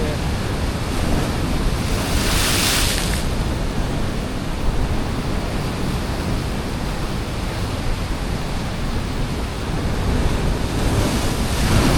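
Heavy ocean swell washing over a coastal rock ledge, with wind buffeting the microphone; a brief hissing rush of water comes about two seconds in and again near the end.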